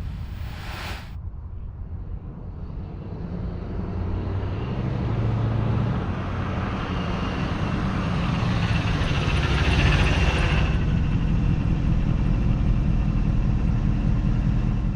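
Engine of a 1988 Chevrolet Blazer, a 5.7-litre TBI V8, running with a steady low rumble. It grows louder over the first ten seconds or so, then holds steady.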